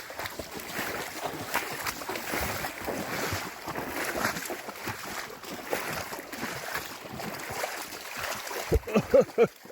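Water splashing and sloshing as a person and a dog wade through a shallow creek toward rocks, with irregular small splashes throughout. A few short low pitched sounds come near the end.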